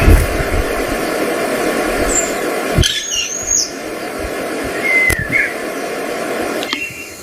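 Bird chirps and short whistles, some gliding in pitch, over a steady rushing noise that cuts off about three seconds in.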